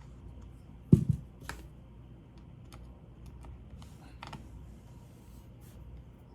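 Hands working on an open laptop with a screwdriver: scattered light clicks and taps of plastic and metal parts, with one loud thump about a second in, followed quickly by two smaller knocks and a sharper click a few seconds later.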